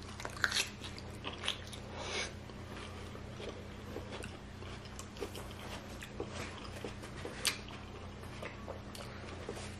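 Close-miked eating sounds: quiet chewing and biting with small scattered clicks and crunches, over a faint steady low hum.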